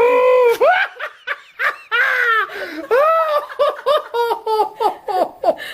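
People laughing in a long run of repeated bursts.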